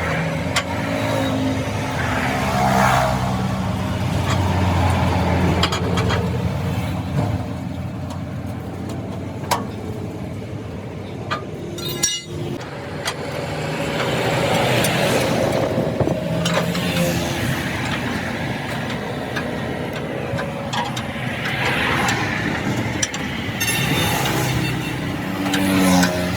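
Motor vehicles running and passing by on a road, their engine noise swelling and fading several times, with a few sharp knocks in between.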